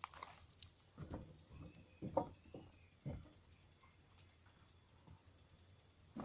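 Wood campfire crackling, with scattered small snaps and pops. A few louder ones come in the first three seconds, then fainter ticks.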